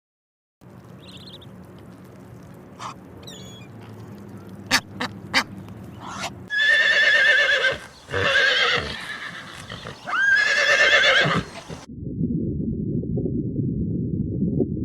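A farm animal calling three times, each call loud, long and wavering in pitch, after a few sharp clicks. About 12 seconds in it cuts to a low rumbling noise.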